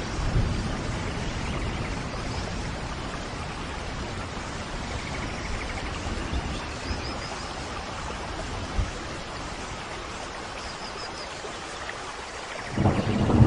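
Steady rain falling, with a brief low thud about nine seconds in and a low rumble of thunder starting near the end.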